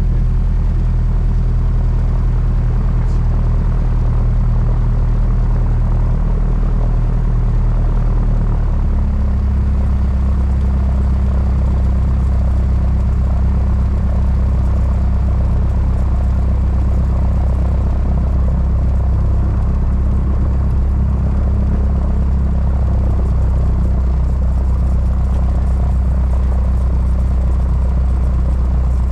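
Mooney M20J's four-cylinder piston engine and propeller running steadily, settling into a different steady engine note about nine seconds in.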